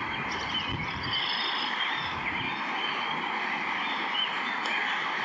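A steady chorus of calling frogs, with wind rumbling on the microphone.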